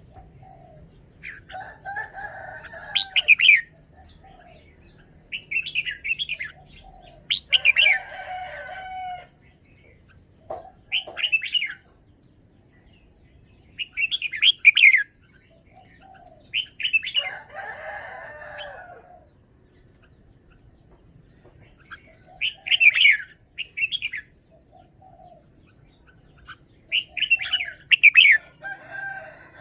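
Red-whiskered bulbul singing: short, bright, warbled phrases repeated every few seconds.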